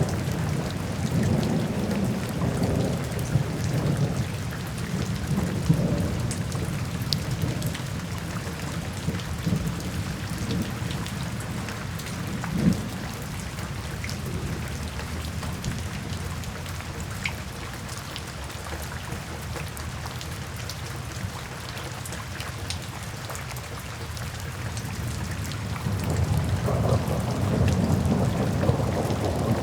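Steady rain falling, with soft rolling thunder rumbling low at the start and swelling again near the end.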